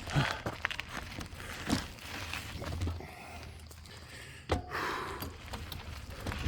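Bicycle ridden over a dirt trail: tyres crunching and the bike knocking and rattling over rough ground, with one sharp knock about four and a half seconds in.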